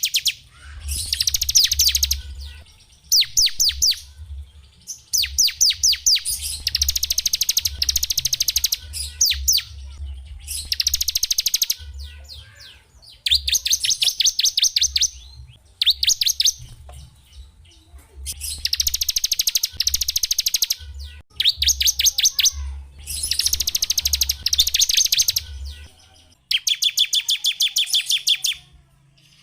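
A small songbird sings a series of fast, high trills. Each trill lasts one to two seconds, with short pauses between them.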